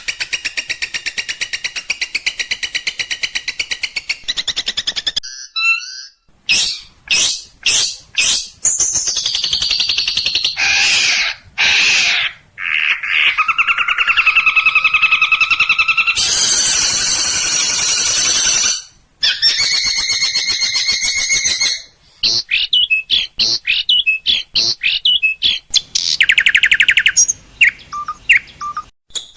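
Long-tailed shrike (cendet) song in an edited training compilation. It runs through fast rattling runs of repeated notes, sharp clicking calls, whistled phrases and a harsh, scratchy stretch, each passage cut off abruptly and followed by the next.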